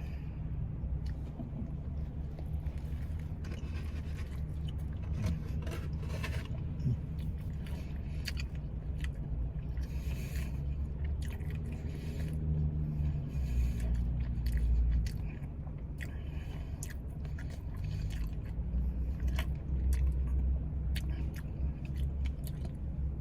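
A man biting into and chewing a triple-patty cheeseburger, with scattered short crackles and clicks of chewing and handling, over a steady low hum.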